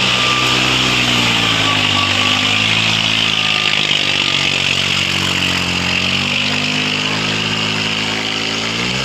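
Tractor diesel engine running hard, its pitch sagging over the first few seconds, then climbing back and revving up sharply near the end.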